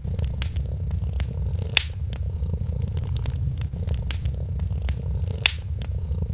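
Cat purring steadily and low under a wood fire crackling, with scattered pops; two louder pops come just before two seconds in and near the end.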